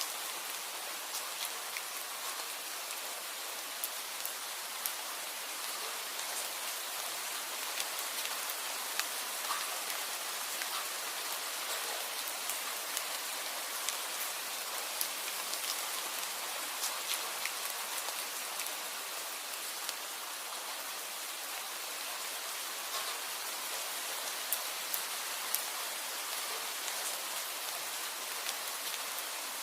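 Steady rain falling: an even hiss with many separate drops ticking sharply on a surface.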